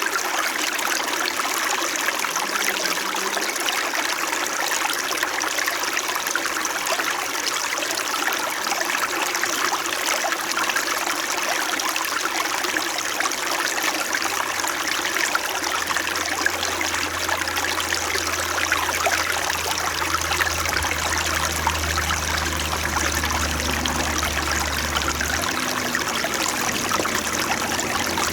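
Small winter mountain stream flowing steadily, an even trickling rush of water. A low hum joins in about halfway through and cuts off suddenly a few seconds before the end.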